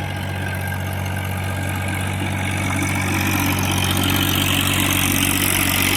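Mahindra OJA 2124 compact diesel tractor's engine running steadily, growing louder over the second half.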